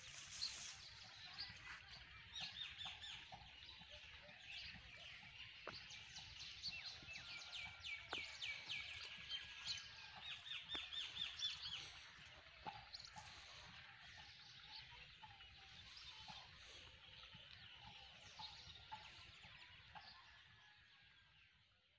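Faint birdsong: scattered chirps and several fast trills of quickly repeated high notes, busiest in the first half.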